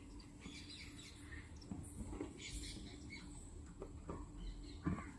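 Parrots giving scattered short chirps and squawks, with a few small clicks and taps among them.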